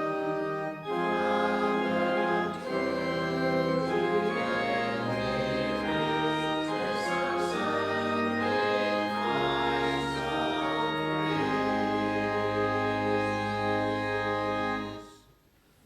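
Church organ playing sustained chords that change every second or two, ending on a final chord that cuts off about fifteen seconds in.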